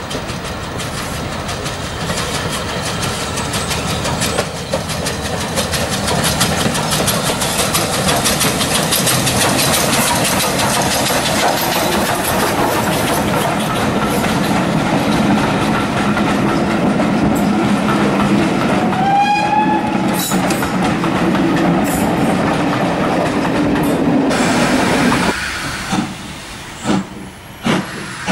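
A steam-hauled passenger train passing close by: a steady rumble and clatter of the coaches' wheels on the rails, building up over the first several seconds as it approaches. About two-thirds through, a brief tone curves upward over the rumble. Near the end the sound drops suddenly, leaving a string of sharp beats about once a second.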